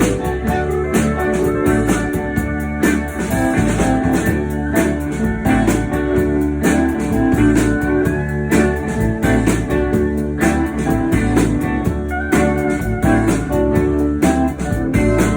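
Live blues band playing an instrumental passage with no vocals: guitar over bass and drums with a steady beat, and a few sliding guitar notes.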